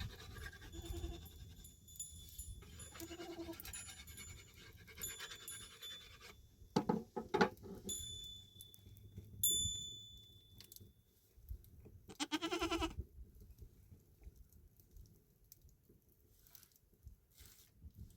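An animal bleating: short calls near the start and about three seconds in, then a louder bleat about twelve seconds in, with two sharp knocks around seven seconds in.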